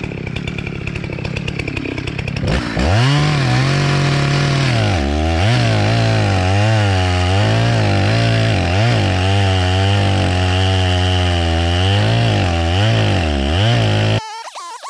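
Two-stroke chainsaw idling, then revved to full throttle about two and a half seconds in and cutting into a tree, its engine pitch dipping and recovering as the chain bogs under load. The sound stops abruptly near the end.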